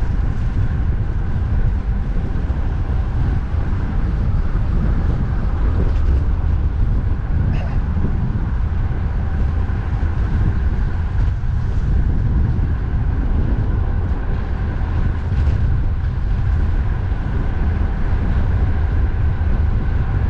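Strong wind blowing across the microphone, a steady low rush, with road traffic running underneath.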